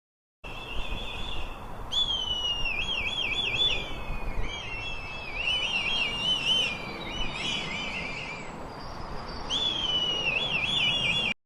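Kite calling: a series of high, thin whistles that slide into rapid up-and-down wavering, repeated several times over a low outdoor rumble.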